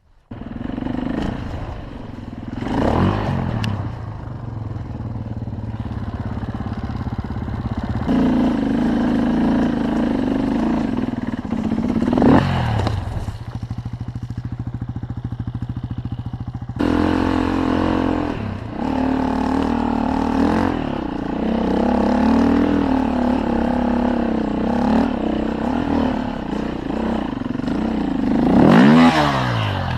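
Motorcycle engines running, rising and falling in pitch as they rev several times, loudest near the end. The sound changes abruptly twice, about a quarter and about halfway through.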